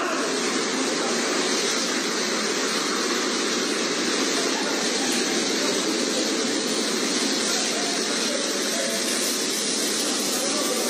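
Automatic car wash running: a steady, unbroken rushing noise of spray or blowers.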